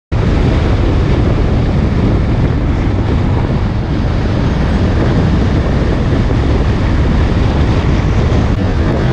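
Wind buffeting a motorcycle rider's microphone at speed, over the bike's running engine and road noise; it cuts in abruptly right at the start and stays steady.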